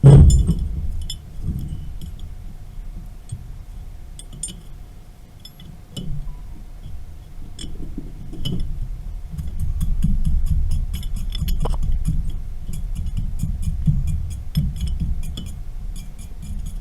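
Metal tools and pipe fittings being handled: a heavy metallic knock right at the start, then scattered clinks and knocks over a low rumble. The clinks grow busier in the second half, over a faint steady hum.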